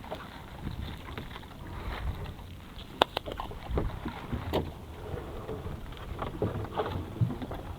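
Wind buffeting the microphone with a low rumble, broken by scattered sharp clicks and knocks. The loudest is a single sharp click about three seconds in.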